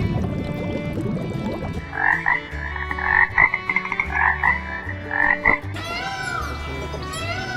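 Animal calls over background music: about two seconds in, a rapid run of short pulsed calls lasting around three and a half seconds, followed by a few short arching chirps.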